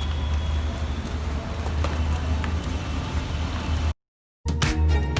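Steady low road and engine rumble of a car being driven. About four seconds in it cuts off abruptly, and music starts half a second later.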